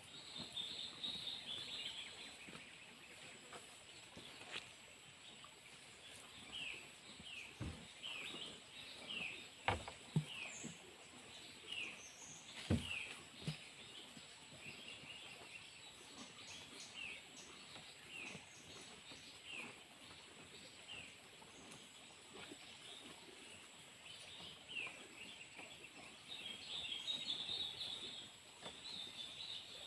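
Birds chirping outdoors: a steady run of short, high, falling chirps, thickest near the start and again near the end. A few sharp knocks sound about a third of the way in.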